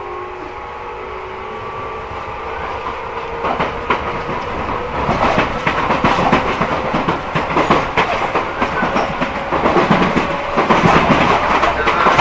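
Tobu 8000 series electric train running and picking up speed, its resistor-controlled traction motors humming under a steadily rising noise of wheels on rail. Rail-joint clicks come in after a few seconds and grow denser and louder.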